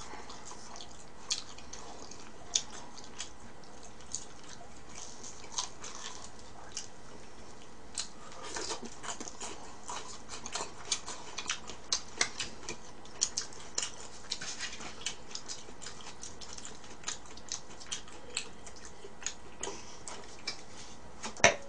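Close-up chewing of fried chicken: irregular crunchy clicks and smacks, sparse at first and much thicker from about eight seconds in, over a steady low hiss.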